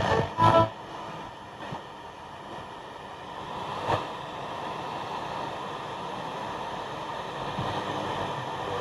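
Vintage Blaupunkt Frankfurt car radio playing steady FM static through its mono speaker: the set is tuned between stations. A brief snatch of a station comes through about half a second in.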